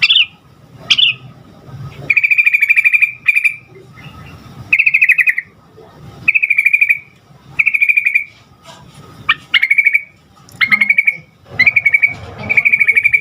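Yellow-vented bulbul (trucukan) singing: two short upward-sweeping notes, then a run of loud, rapid, bubbly trilled phrases repeated about once a second.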